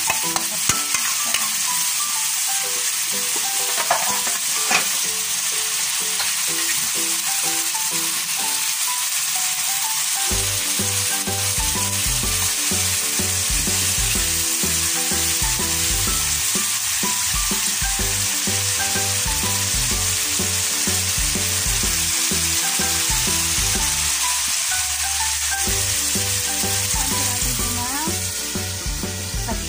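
Pork slices with onions and garlic sizzling steadily in hot oil in a metal wok, with a few sharp clicks of a metal spatula against the pan in the first seconds. Near the end the sizzle drops a little as the lid goes on.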